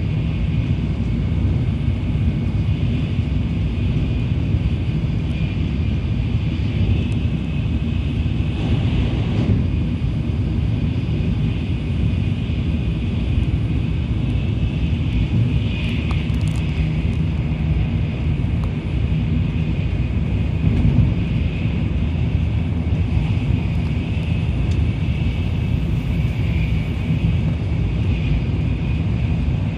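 Tokaido Shinkansen train running at speed, heard from inside the passenger car: a steady low rumble of the wheels on the rails with a higher hiss over it.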